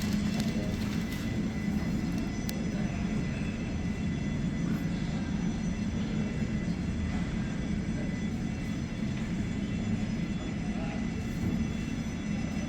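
Steady airport ambience around aircraft parked at the gate: a low, even hum with several faint, steady high-pitched whines over it.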